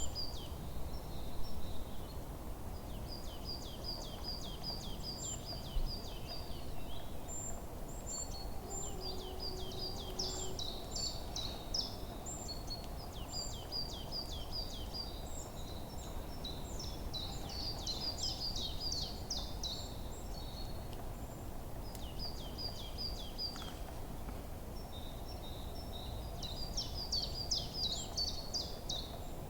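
Forest birds singing, with repeated phrases of quick high chirps and trills that come in runs of a few seconds, some overlapping. Underneath them is a steady low rumble of background noise.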